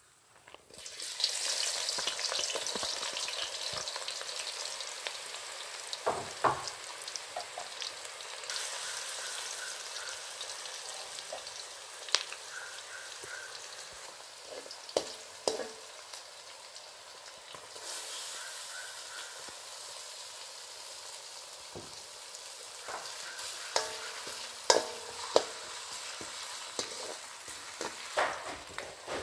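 Sliced onions dropped into hot oil in a wok, starting a loud sizzle about a second in that settles into steady frying. A slotted spatula stirs them, knocking and scraping against the wok now and then.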